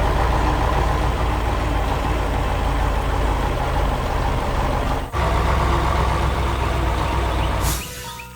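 Heavy excavator engine running steadily with a deep rumble. It breaks off for a moment about five seconds in and cuts out shortly before the end.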